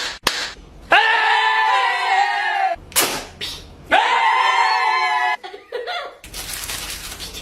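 A woman imitating a sound with her voice: two long, high-pitched held cries of about a second and a half each, with short clicks between them and a burst of hiss near the end.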